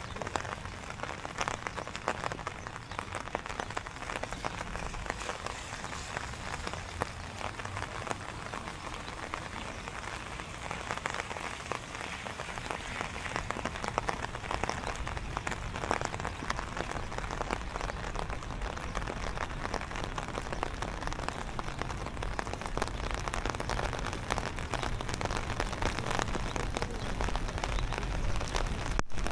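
Steady rain falling, a dense even hiss full of the small ticks of drops striking the ground and nearby surfaces. The sound cuts out for a split second near the end.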